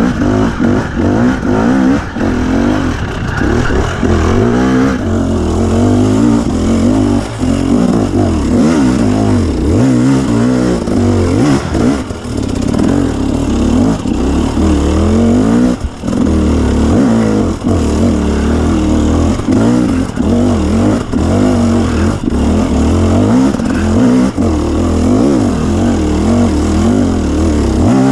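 2017 KTM 250 EXC two-stroke dirt bike engine under constant throttle changes, its pitch rising and falling over and over, with brief drops when the throttle closes.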